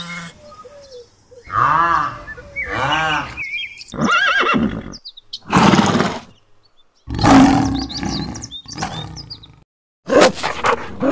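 A string of short animal calls, one after another with brief pauses, each lasting well under a second; the first few rise and fall in pitch, the later ones are rougher and noisier.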